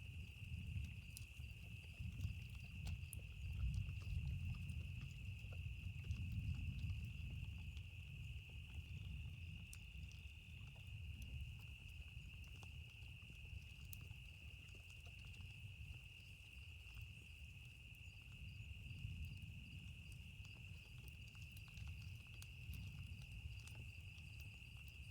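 Campfire crackling with scattered small pops over a steady, unbroken insect chorus, with a low rumble of distant thunder swelling in the first few seconds and again near the end.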